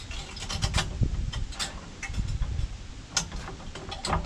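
Hand-handling noise: irregular scraping, rubbing and sharp light knocks as a hydraulic hose or wire is worked through a tractor loader's steel boom.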